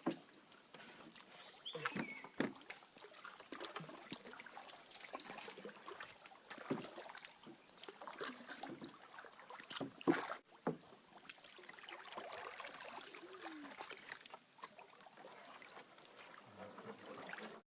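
Faint water and wooden sounds from a small boat on a river: scattered irregular knocks and clicks with a light splashing haze. A louder knock comes a little after halfway.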